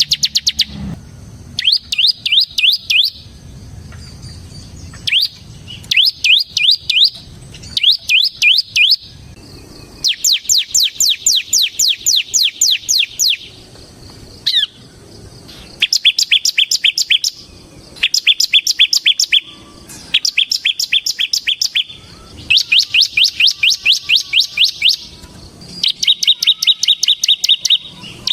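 Ciblek (bar-winged prinia) singing a fast, drilling trill of rapid repeated high notes, about ten a second. The trills come in runs of one to three seconds with short pauses between them, over and over.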